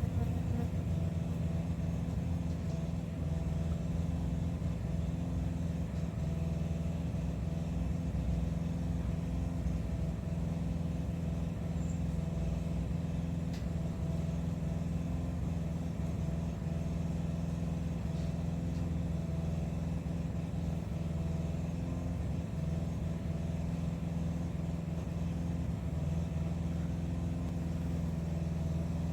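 A steady low machine hum with a few constant pitches, like a motor or engine running without change.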